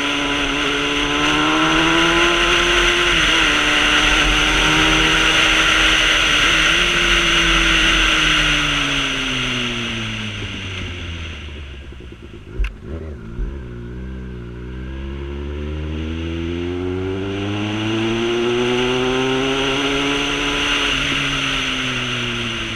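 Motorcycle engine under way, its pitch climbing with two brief dips at gear changes about three and six seconds in, then falling as the bike slows near the middle, where a couple of sharp knocks sound. It then accelerates again and eases off near the end, with a steady rushing noise that fades while the bike is slow.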